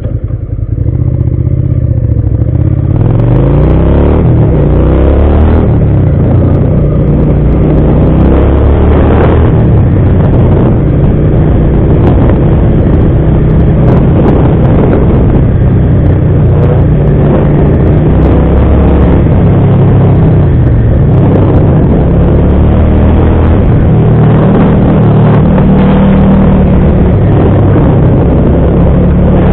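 Motorcycle engine under way, loud throughout. The revs climb over the first few seconds, then rise and fall again and again as the bike rides on.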